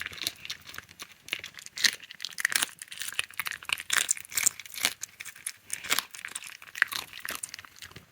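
A fox crunching food in its mouth: quick, irregular crackling crunches.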